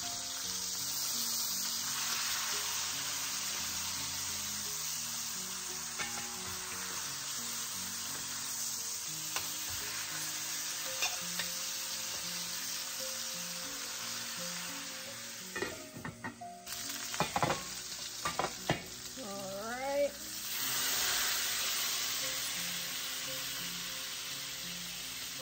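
Pork chops sizzling in hot bacon grease in a stainless electric skillet, a steady frying hiss. About fifteen to twenty seconds in, a fork clinks and scrapes against the pan as the chops are turned. Soft background music runs underneath.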